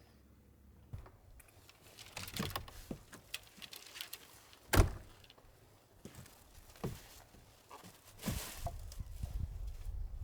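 Household handling sounds: scattered clicks, knocks and rustling, with one sharp loud knock about five seconds in.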